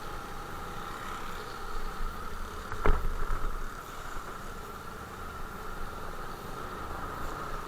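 Motorcycle engine running steadily, with a single sharp knock about three seconds in.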